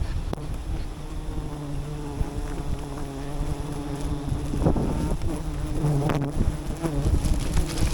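Swarm of wild bees buzzing in a steady, pitched hum around their hive, with wind rumbling on the microphone and a couple of brief knocks in the second half.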